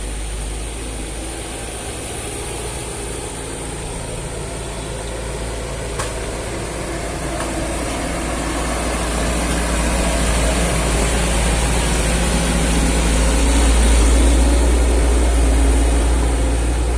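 Heavy truck engine running steadily with a deep rumble, growing gradually louder through the middle and peaking near the end, with a single sharp click about six seconds in.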